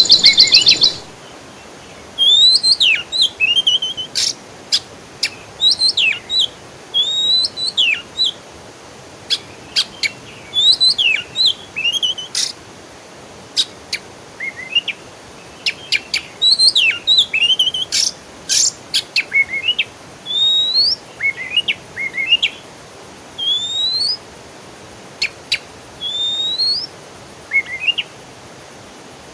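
Songbird singing: repeated short rising whistled notes and sharp chips in quick phrases with short gaps between them, opening with a loud rapid trill in the first second.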